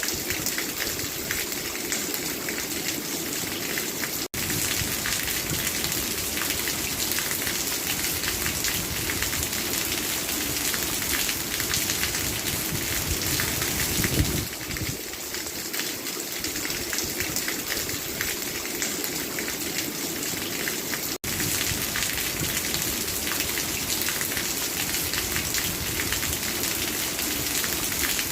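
Steady rain falling, a dense even patter of drops with a brief louder swell about halfway. The sound cuts out for an instant twice, at edit splices.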